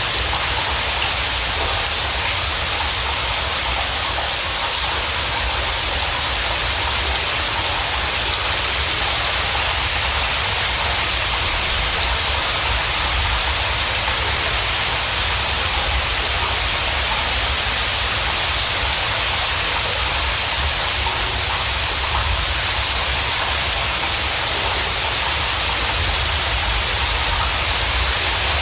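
Steady rain falling: an even hiss of many drops with a low rumble beneath, unchanging throughout.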